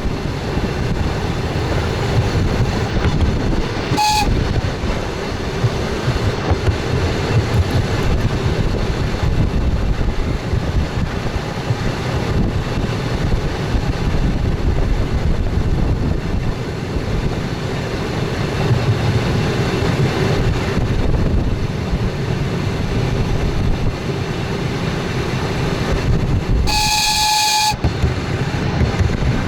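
Train running, heard from its front cab: a steady rumble and clatter of wheels on rail. A brief high whistle blip about four seconds in, and a high whistle blast of about a second near the end.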